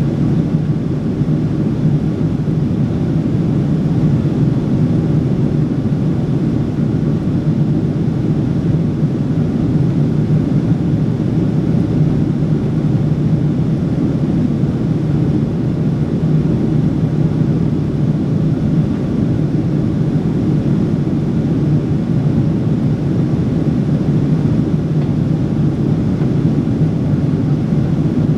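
Cabin noise aboard a Boeing 777-300 in flight: a steady, unbroken rush of airflow and engine noise, heaviest in a low hum.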